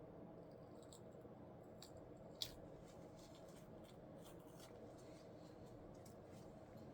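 Near silence: room tone with a few faint small clicks, and one sharper click about two and a half seconds in.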